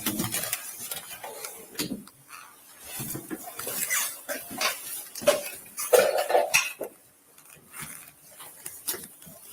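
Scattered light clinks, knocks and rustles, with a louder cluster about six seconds in.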